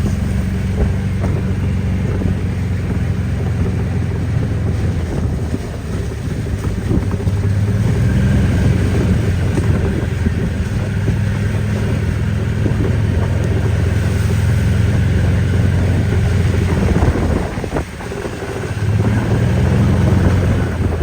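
An engine running steadily, with wind buffeting the microphone; the engine sound eases off briefly a little before the end and then picks up again.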